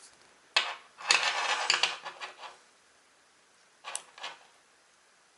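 Clattering and clinking of small hard objects being handled, about two seconds of rattling followed by two short clicks.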